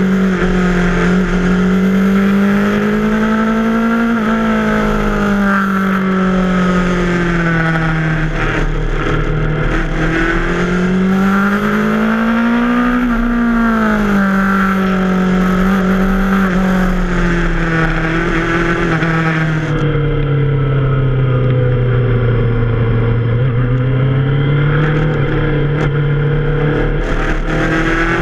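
Yamaha FZ6R's 600 cc inline-four engine running on the move, its revs climbing and falling several times, at their lowest about three quarters of the way through.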